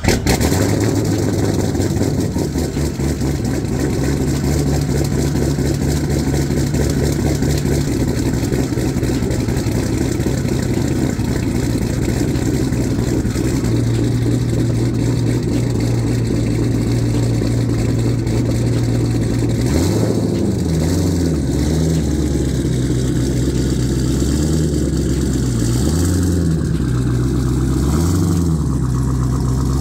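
Twin-turbo V8 of a C6 Corvette Z06 idling steadily, then from about twenty seconds in its engine speed rises and falls in repeated gentle swells.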